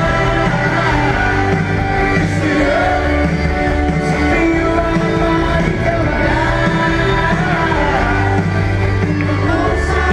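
Live pop-rock band playing with singing, recorded from the audience at a concert.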